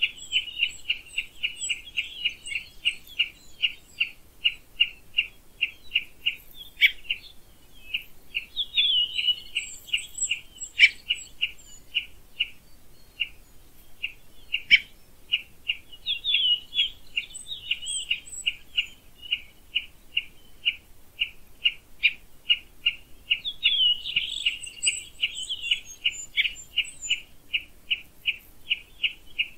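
Birdsong in summer woodland: one bird repeats a short, high chirp about three times a second without a break. Other birds add brief higher, twittering phrases every several seconds, and there are a few sharp, louder notes.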